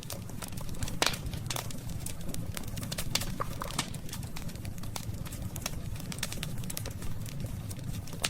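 Wood burning in a campfire, crackling with irregular sharp pops, the loudest about a second in, over a steady low rumble.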